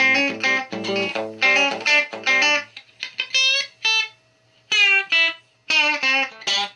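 Telecaster-style kit electric guitar played through an amplifier: a quick run of short chords, then a few ringing chords with brief gaps between them.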